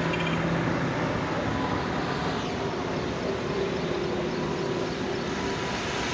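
Steady road traffic noise on a rain-wet road: engines humming and tyres running on the wet surface, with no single loud event.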